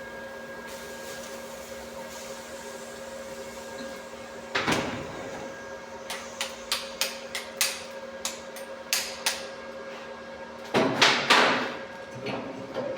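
A hammer striking metal: about ten sharp, separate knocks in quick succession, with a louder noisy burst before them and another after, over a steady electrical hum.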